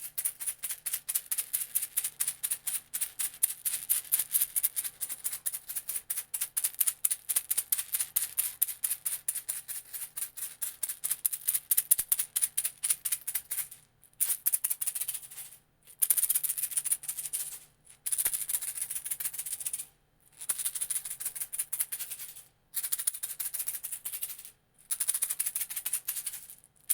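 Small hand rattle shaken rapidly and continuously, then from about halfway on in a series of short shaking bursts of a couple of seconds each, with brief pauses between.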